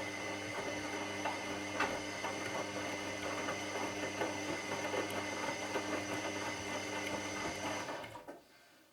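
Washing machine motor turning the drum: a steady hum with light rattling and clicks from the load, stopping abruptly about eight seconds in, as in the pause between drum turns of a wash cycle.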